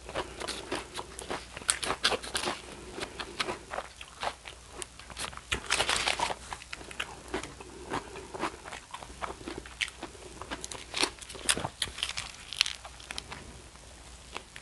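Close-miked chewing of a chicken gyro with cheese and cucumber: a steady, irregular run of wet crackles and crunches from the mouth.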